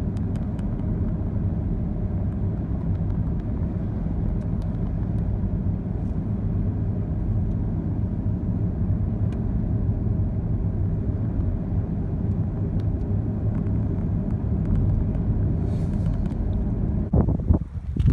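Steady low rumble of a car on the move: engine and road noise, with a brief jolt of louder, uneven noise near the end.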